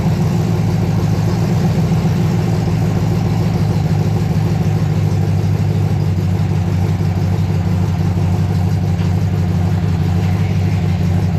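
Old Ford truck's engine idling steadily.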